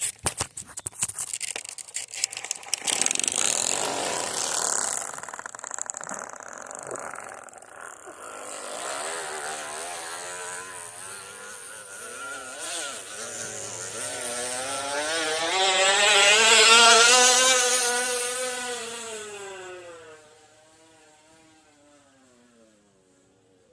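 A plastic water bottle rattling against a bicycle's spokes, buzzing like a motorcycle. It starts as rapid clicking, then becomes a buzzing tone that rises and falls in pitch. It is loudest about two-thirds of the way through, then fades out.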